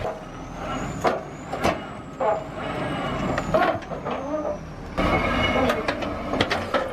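Heavy diesel machinery engine running, with several sharp metallic knocks and clanks over it. The sound changes abruptly about five seconds in.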